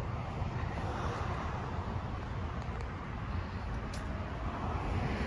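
Steady road traffic noise: a continuous low rumble and hiss of cars going by, with a faint click about four seconds in.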